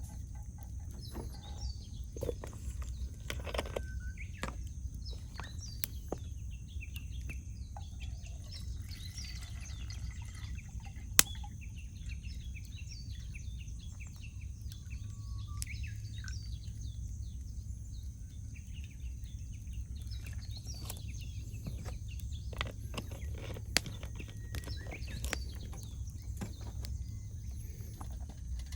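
Wood campfire crackling with many small snaps and two sharp pops, the loudest about 11 seconds in and another near 24 seconds. Birds chirp faintly in the background.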